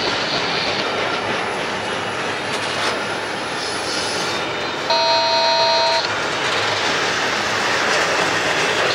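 Double-stack intermodal container well cars rolling past on the rails, a steady rumble and rattle of wheels on track. About five seconds in there is a short, high metallic squeal lasting about a second.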